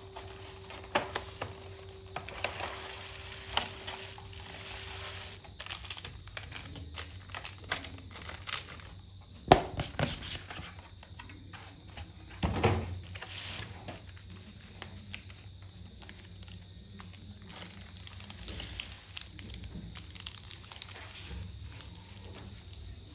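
Plastic chocolate packaging crinkling and tearing as it is handled and opened, in irregular bursts of crackle, with two louder knocks a few seconds apart near the middle.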